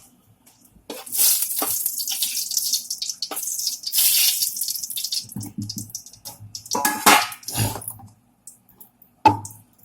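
Dried red chillies sizzling and crackling in hot oil in a kadhai. The hiss starts about a second in, swells and fades in waves, and dies away near the end, with a few knocks of a spoon against the pan near the end.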